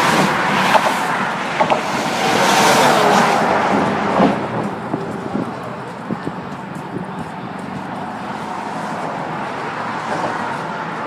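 Outdoor rush of road traffic and wind: a loud swell of passing-vehicle noise over the first few seconds, easing to a quieter, steady rush.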